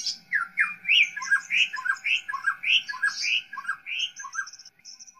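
Birds chirping: a string of quick rising-and-falling chirps about two a second, with a high twittering trill over them that carries on alone and fades out near the end.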